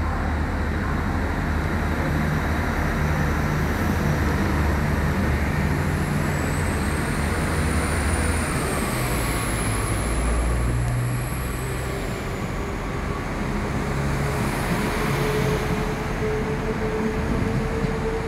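Northern Class 195 diesel multiple unit's underfloor diesel engines running as the train pulls out, a deep rumble whose note shifts a few times, with a faint high whine that rises and falls midway.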